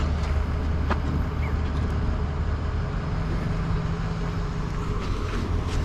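A motor vehicle's engine running steadily at low revs, a constant low hum, with a brief click about a second in.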